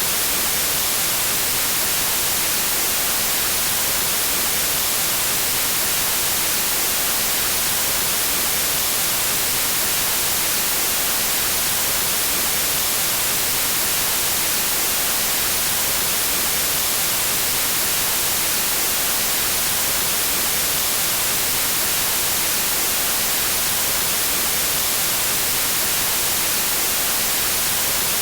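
Steady synthetic white noise: an even, unbroken hiss, strongest in the high frequencies.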